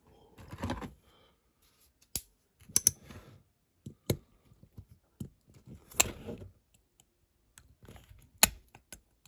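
Sharp clicks and taps of a tool and small parts on a diecast toy car as its engine piece is worked loose, with light rustling handling noise between the clicks.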